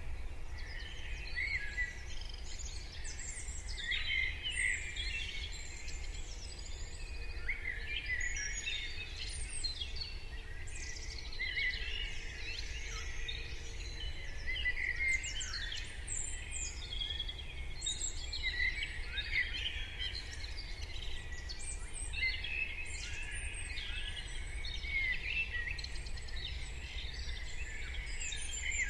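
Morning bird chorus: many birds singing and calling at once, a dense overlapping mix of short chirps and whistles, over a low steady rumble.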